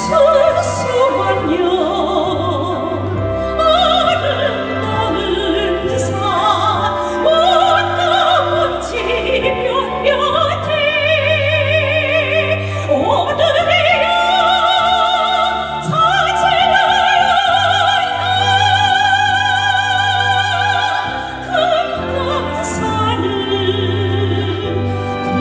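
A woman singing in a trained, operatic style with wide vibrato and long held notes, over instrumental accompaniment with a steady bass.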